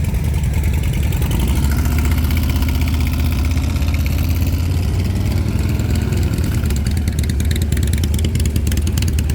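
Car engine running at high revs, a steady low drone whose pitch rises a little a few seconds in.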